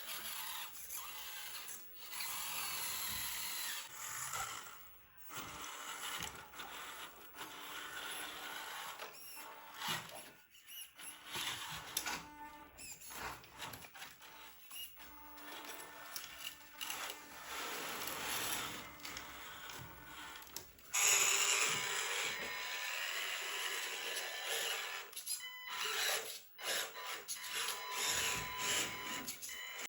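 Small electric motors and gearboxes of toy remote-control cars whining as they drive, starting and stopping and changing pitch, louder from about two-thirds of the way in.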